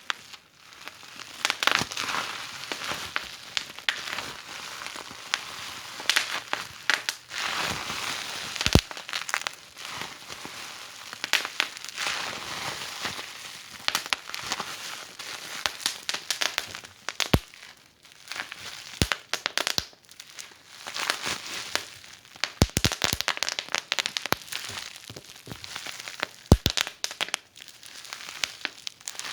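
Fireplace fire crackling: a steady hiss dotted with many quick pops, and a few much louder snaps scattered through.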